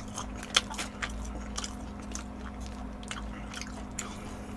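Close-miked chewing of a sauce-coated fried dumpling (tangsu mandu): irregular wet clicks and smacks of biting and chewing, with one sharper bite about half a second in.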